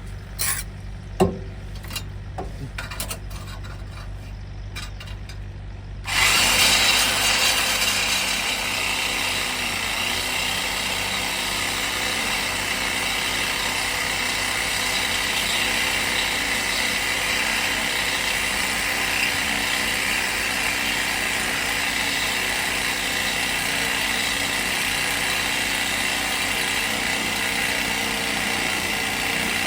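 A few light handling clicks and a sharp knock, then about six seconds in a corded power saw starts and runs steadily, cutting through the truck's exhaust pipe.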